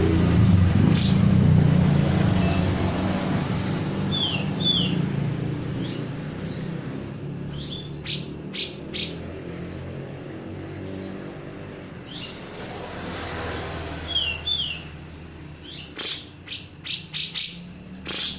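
Grey-cheeked bulbul (cucak jenggot) calling: two pairs of short downward-slurred whistles, and a run of sharp, repeated call notes that grows thicker in the second half. A vehicle's low hum fades away over the first few seconds.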